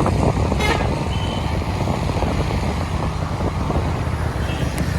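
Motorcycle riding along a highway: a steady low engine drone mixed with road and traffic noise.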